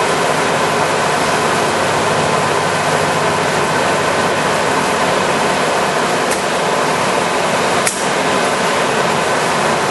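American Pacemaker heavy-duty engine lathe running under power: a steady mechanical running sound from its geared drive, with a few steady tones, as the carriage is fed with the half nut engaged. A faint click about six seconds in and a sharper click near eight seconds.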